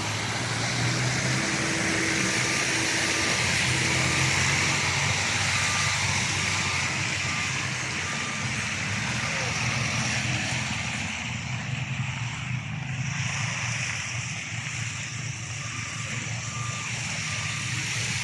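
Heavy vehicle's diesel engine running, with its reversing alarm beeping steadily at about two beeps a second in two spells, the second starting near the end.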